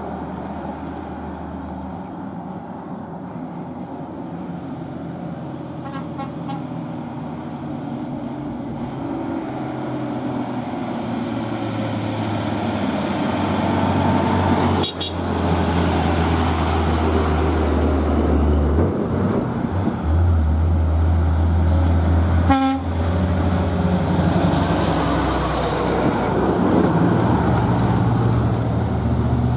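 Heavy diesel truck engine running under load, building steadily louder through the first half and then holding at full strength. A faint high whine comes in past the middle and fades near the end.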